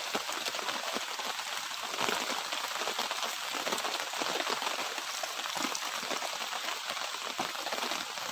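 Light drizzle pattering steadily, a dense run of small drops.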